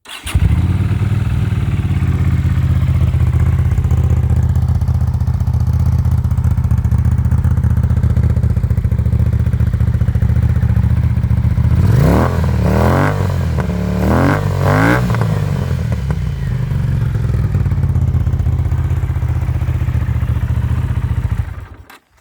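Honda CX500 V-twin motorcycle engine breathing through cut-down Norton mufflers: it fires up at once and idles steadily. About twelve seconds in it is blipped up and back down four times in quick succession, then settles back to idle and is switched off just before the end.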